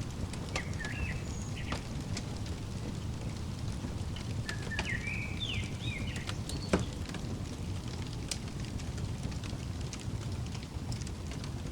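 Fireplace crackling over a steady low rumble, with scattered sharp pops; the loudest pop comes about two-thirds of the way through. Short bird chirps come in twice, around a second in and again around five to six seconds in.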